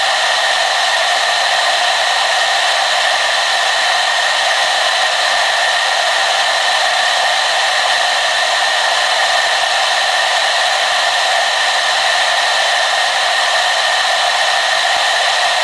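Hair dryer running steadily, an even rushing air noise with a constant high whine and no change in speed.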